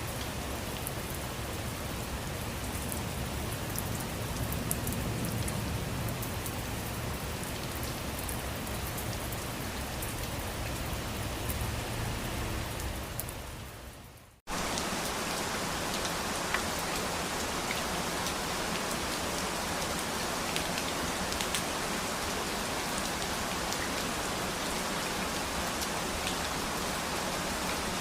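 Steady rain with a low rumble underneath. About halfway through it fades out over a second or two, and a brighter, hissier rain with scattered sharp drop ticks and less rumble starts abruptly.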